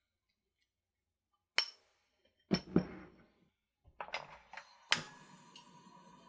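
Kitchen utensils and dishes clinking and knocking: a sharp click, a short clatter, a few small knocks and another sharp click, then a faint steady hum with a thin tone.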